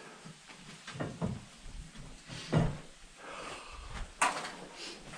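A few scattered knocks and scrapes, the loudest a sharp knock about four seconds in.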